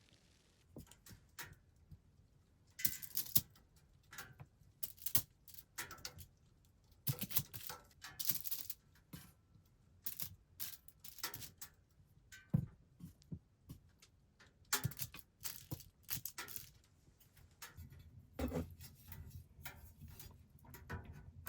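Small objects being handled close by: a string of irregular clicks, clinks and rustles with short pauses between them.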